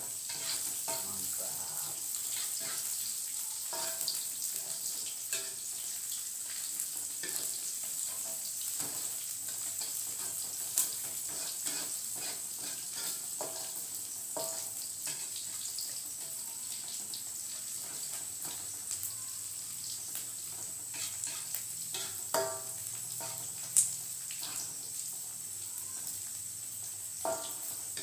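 Food sizzling in oil in a wok, stirred with a metal spatula that scrapes and now and then clinks against the pan. The sharpest clinks come near the end.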